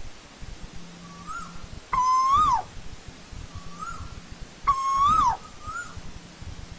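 Asian koel calling: two loud calls about three seconds apart, each a held whistled note that rises and then drops sharply. Fainter, shorter whistles of the same shape come in between.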